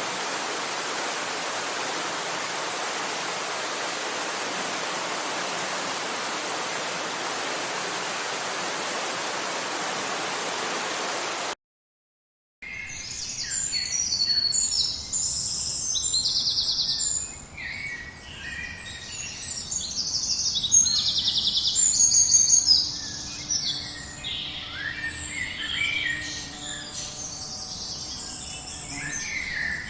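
Steady, even rushing of water, like heavy rain or a torrent, which cuts off abruptly about a third of the way in. After a second of silence, a chorus of many songbirds chirps and trills, busiest and loudest about two-thirds of the way through.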